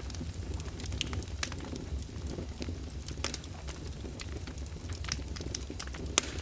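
Fire crackling in a fireplace: irregular sharp pops and snaps over a steady low rumble, with one louder pop near the end.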